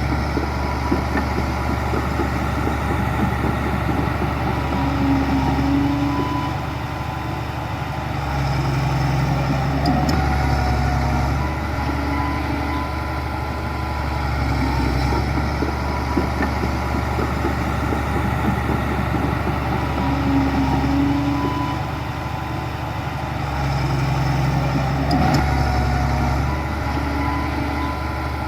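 Diesel engine of heavy earthmoving machinery running steadily, its loudness swelling and easing every few seconds as the load changes.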